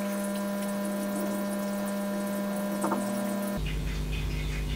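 Steady electrical hum, raised in pitch because the recording is played four times faster than normal. It cuts off abruptly about three and a half seconds in, with a short faint blip just before that.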